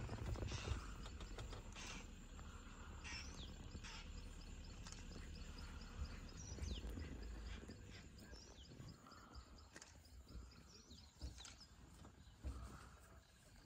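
Quiet outdoor ambience: scattered short bird chirps and whistles over a low steady rumble, with a run of rapid, evenly spaced ticking notes, about five a second, from about six to nine seconds in.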